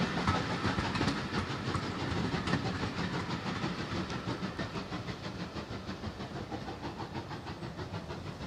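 Passenger train's coaches running away along the track, wheels clicking rhythmically over the rail joints, fading steadily as the train recedes.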